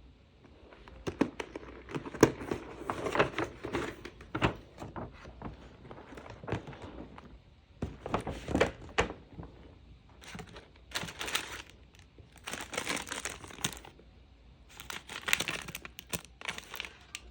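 Packaging of dried dog treats crinkling and rustling as it is handled and opened, in irregular bursts with scattered knocks and taps.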